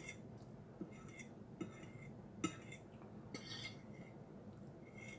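Cutlery clinking lightly against a plate while eating: a handful of short clinks, the loudest about halfway through.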